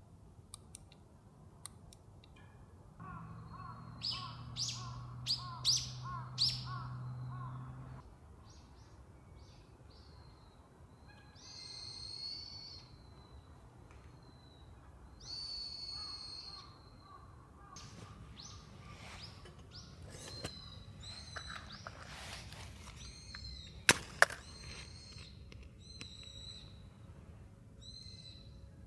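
Wild birds calling, a series of high chirps and several longer, harsher calls. A low hum is heard for a few seconds near the start, and two sharp snaps come about 24 seconds in.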